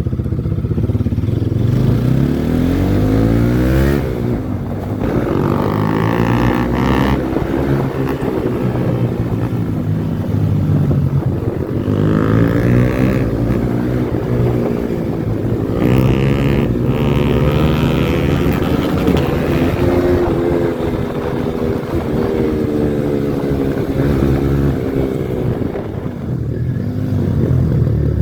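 Yamaha R15 V4's 155 cc single-cylinder engine through a modified exhaust, under way, its note rising and falling over and over as it accelerates and eases off.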